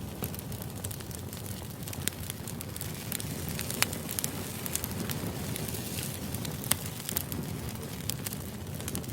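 Steady low background noise with irregular sharp crackles and clicks scattered through it.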